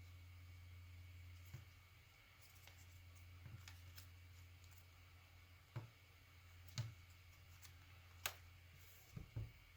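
Paper being folded and creased by hand: several short, sharp clicks and taps spaced irregularly over a low steady hum.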